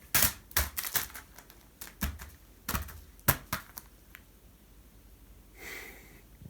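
Sharp crinkly rustles and taps of a sausage-shaped cat toy being moved and batted about, about a dozen over the first four seconds, then a brief soft rustle near the end.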